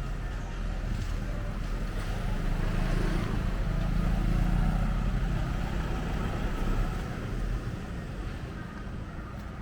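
A car passes close by on the street. Its engine and tyre noise swell to a peak about four to five seconds in, then fade away.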